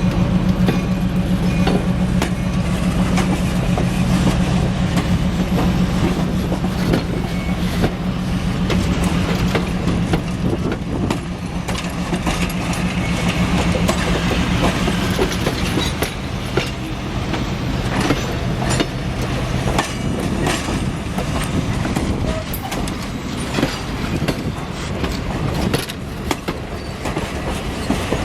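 A train rolling past with its wheels clicking over rail joints. A steady low engine drone fades out about two-thirds of the way through, and the clicks come thicker toward the end.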